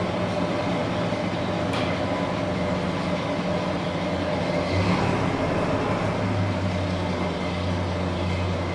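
1948 GMC truck's engine running steadily: a continuous low drone over a steady wash of mechanical noise.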